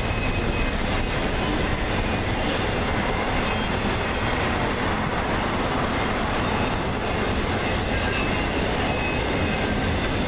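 Freight train cars rolling past close by, a steady rumble and rattle of wheels on rail with faint, brief high-pitched wheel squeals coming and going.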